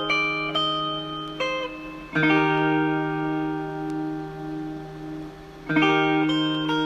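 Instrumental music of plucked string notes, likely a guitar, ringing over a held low note, with new chords struck about two seconds in and again near six seconds.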